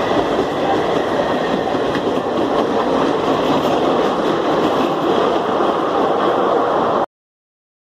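Koyna Express passenger coaches running past at speed, a loud steady rush of wheels on the rails, which cuts off suddenly about seven seconds in.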